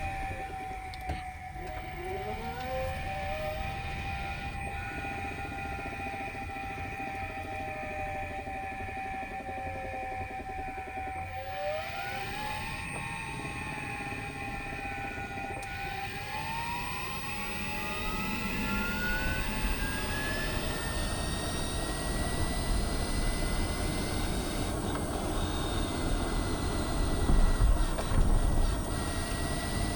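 Mazda MX-30 drivetrain heard from inside the cabin while driving: several whining tones that glide down and up as speed changes, one climbing steadily partway through, over a constant low rumble. A few heavier low thumps come near the end. The owner blames the car's rattling and rumbling on a faulty reducer, which has already been replaced once.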